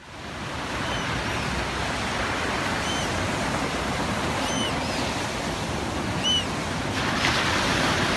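Ocean surf washing onto the beach, a steady rush that swells a little near the end, with short high chirps from small shorebirds every second or two.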